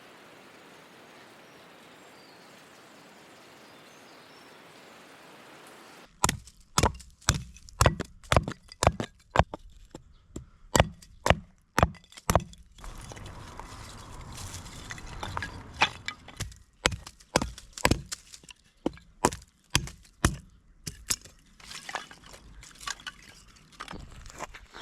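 Dry sticks snapping one after another for firewood: a run of sharp, irregular cracks, roughly two a second, starting about six seconds in after a faint steady hiss.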